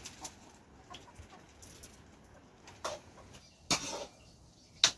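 Domestic chickens clucking: a few short, sharp calls about a second apart, the last the loudest, over a low background.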